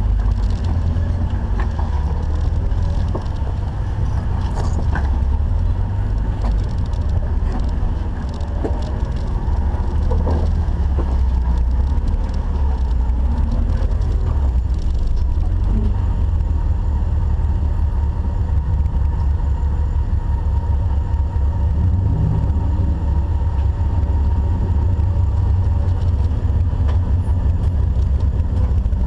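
Jeep engine running steadily under low load while off-roading, a constant low drone with scattered light knocks and clicks.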